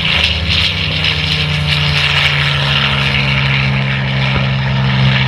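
MXS-RH aerobatic plane's 380-horsepower Lycoming engine and propeller running steadily in flight, a loud, even sound with a strong low engine note.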